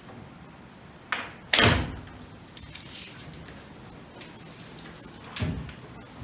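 Knocks and clatters from hand work on foam board insulation: a sharp knock about a second in, a louder clattering hit half a second later, and a smaller knock near the end.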